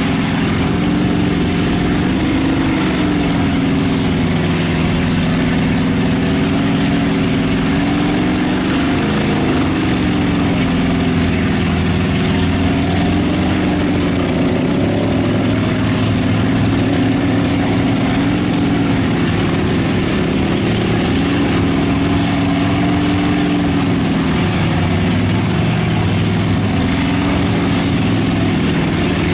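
Big mud truck's engine running steadily, its revs rising and falling gently several times, with constant mechanical noise behind it.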